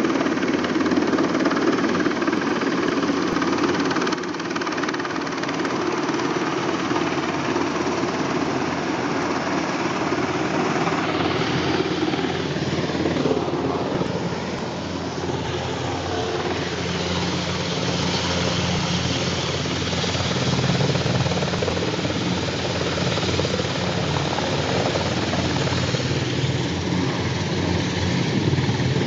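Super Puma twin-turbine helicopter running: a continuous loud rotor and engine noise that changes in tone around the middle.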